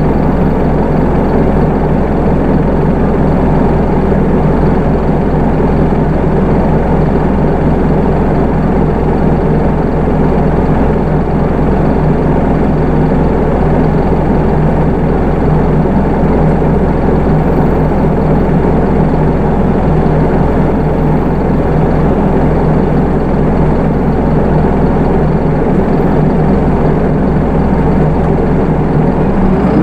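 Hino Rainbow II city bus's Isuzu 4HK1 four-cylinder diesel engine running at a steady low speed, even and unchanging, with the engine note just beginning to rise at the very end.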